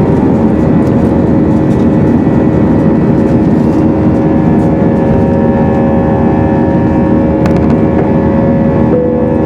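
Airbus A319 jet engines heard from inside the cabin during the climb after takeoff: a steady, loud drone with a low rumble and several held whining tones.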